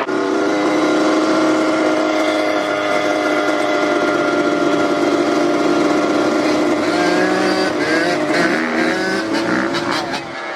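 Dirt bike engine running at steady revs, its pitch wavering and shifting near the end.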